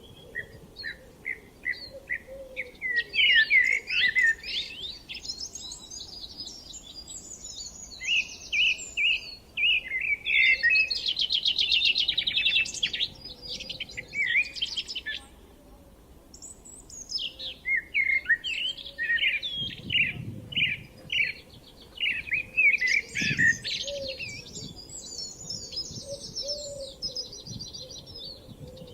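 Songbirds singing: several overlapping songs of quick chirps, trills and warbled phrases, with a short lull about halfway through.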